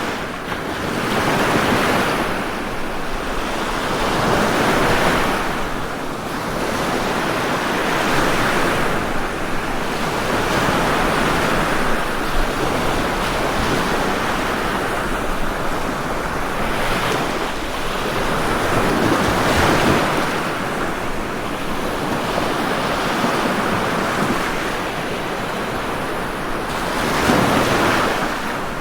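Ocean waves breaking and washing on a shore, a continuous rushing surf that swells with each wave every few seconds, one surge stronger near the end.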